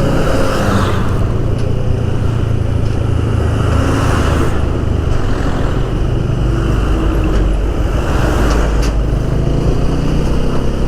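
Motorcycle engine running steadily at highway speed, with wind and road noise swelling and fading every second or two.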